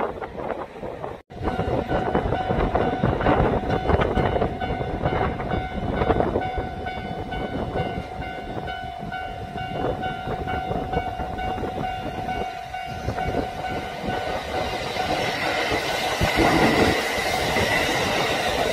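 A train running along the track, its wheels clacking over rail joints under a steady rumble and a thin steady whine. The sound cuts out for an instant about a second in, and a rushing noise grows toward the end.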